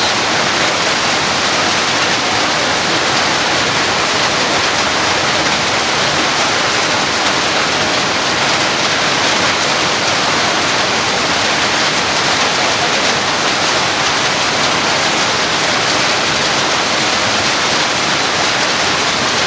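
Heavy rain falling, a steady, loud hiss with no breaks.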